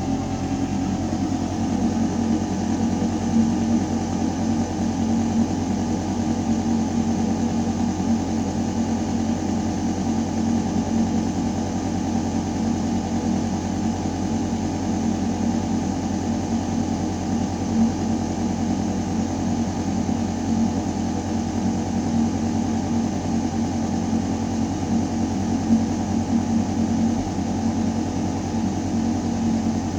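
Building ventilation system running in a metal duct shaft: a steady mechanical hum of several held low tones under the rush of air through the ductwork.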